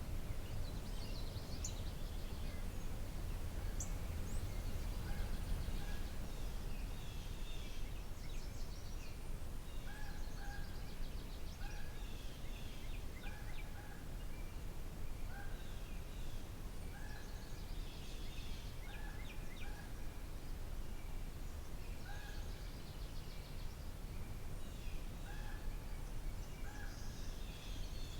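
Birds singing and calling outdoors, one of them repeating a short two-part call about every second or so, with scattered higher song over a steady low rumble.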